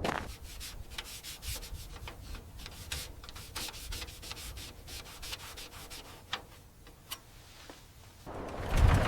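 Quick, faint, repeated rubbing strokes, several a second, fading a little. About a second before the end, a much louder steady low rumble starts.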